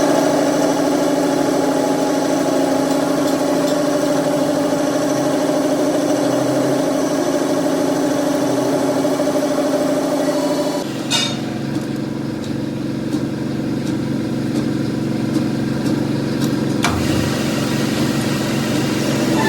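Workshop machinery running steadily with a constant hum. About eleven seconds in, the sound changes abruptly to a different, lower steady running sound.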